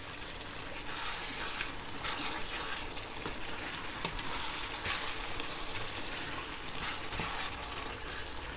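Chicken pieces in tomato sauce sizzling in a hot pan, with soft scraping strokes now and then as the food is stirred.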